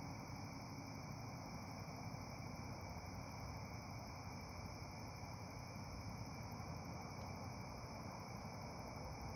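Bonfire burning: a steady low rushing noise with a few faint crackles.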